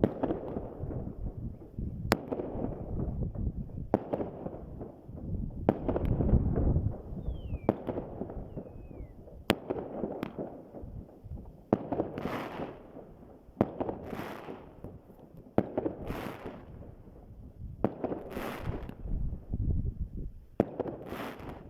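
Fireworks going off: sharp bangs about every two seconds, each trailing off in a long low echo, with crackling bursts joining in between them from about halfway through.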